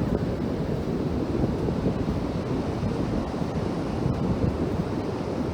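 Ocean waves breaking on a beach, a steady rushing surf, with wind buffeting the microphone.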